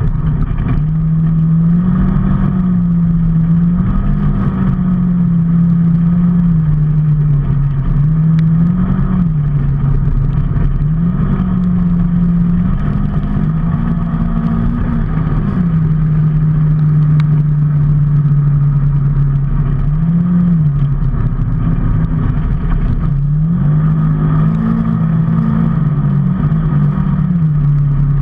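Vehicle engine running while under way, its note rising and dropping back again and again as the throttle and speed change, with steady road and wind noise underneath.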